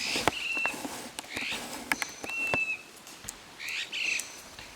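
Wild birds calling: a few harsh, raspy calls and two short, clear whistled notes, mixed with several sharp clicks.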